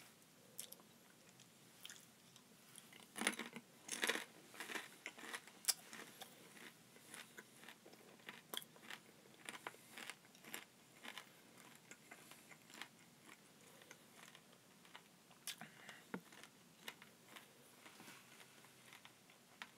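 Faint crunching and chewing of an edible beetle in the mouth, irregular crackly bites that are loudest a few seconds in.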